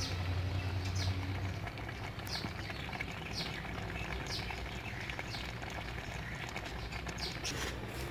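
A small bird chirping repeatedly, short falling chirps about once a second, over a low hum that fades out in the first couple of seconds.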